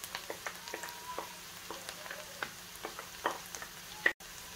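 Sliced onions and minced garlic frying in oil in a nonstick pan: a steady sizzle with scattered crackles and pops, and a sharp click about four seconds in.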